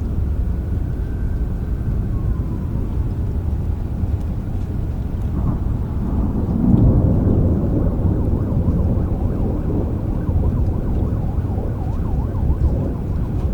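Steady rain with a rumble of thunder that swells about halfway through and then dies back into the rain.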